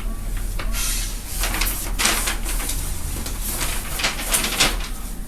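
Rustling of paper and fabric being handled while a pattern is pinned to a gown, in several short bursts.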